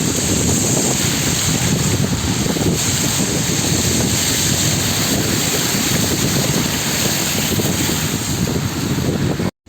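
Steady, loud wind noise buffeting the microphone, with a split-second drop to silence near the end.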